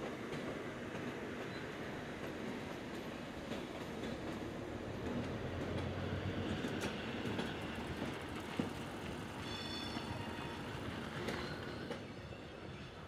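Train moving through a railway yard: a steady rumble of wheels on the track with scattered clicks, swelling a little in the middle. A brief high thin squeal comes about ten seconds in.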